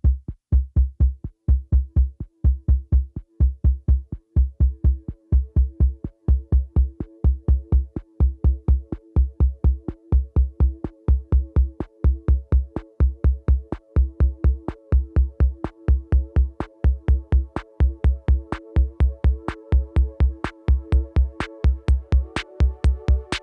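Instrumental intro of an electronic song: a steady programmed beat of low kick-drum thuds and sharp clicks. About a second in, a held synthesizer tone joins it, and it thickens into a fuller chord near the end.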